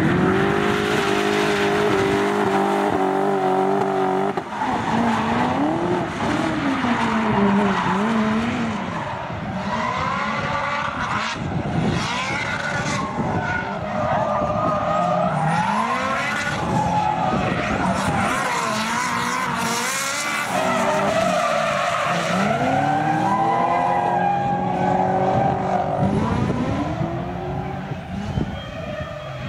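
V8 engine of a BMW E30 drift car revving hard through powerslides, held steady for about the first four seconds, then repeatedly rising and falling in pitch as the throttle is worked, with the tyres skidding and squealing.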